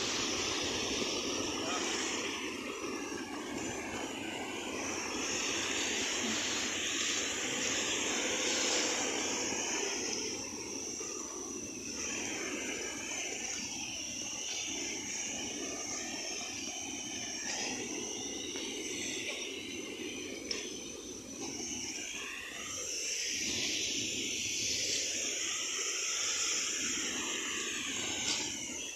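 Steady rushing of a waterfall: an even, hissing wash of water noise that swells and eases slightly.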